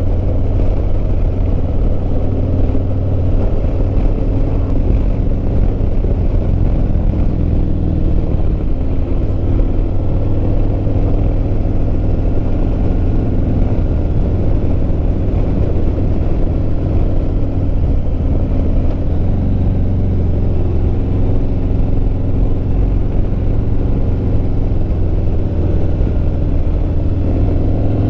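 Motorcycle engine running at a steady road cruise, heard through a helmet microphone along with a heavy, constant wind rumble.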